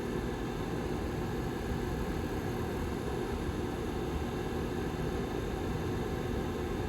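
Rear fan of a Lasko Model 755320 tower heater running steadily: an even rush of air with a faint steady hum.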